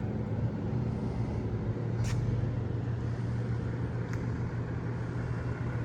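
Tow truck engine running steadily at a low hum, with two brief clicks about two and four seconds in.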